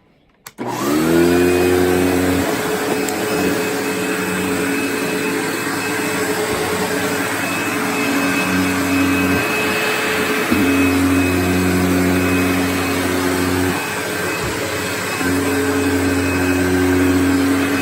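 Hoover Insight 100 commercial upright vacuum cleaner switched on about half a second in. Its motor spins up to speed and then runs steadily with a high fan whine, its hum shifting and dipping briefly a couple of times.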